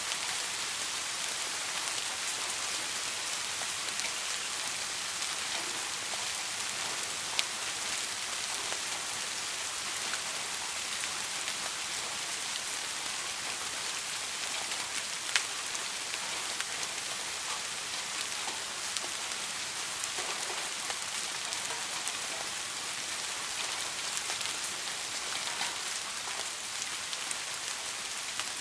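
Soft rain falling steadily as an even hiss, with scattered individual drop ticks; two sharper drop hits stand out, about a quarter and about halfway through. No thunder.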